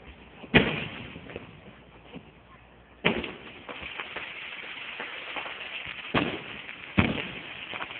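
Fireworks going off: four sharp bangs, one about half a second in, one at about three seconds, and two close together near the end, with a steady crackling hiss between them from the middle on.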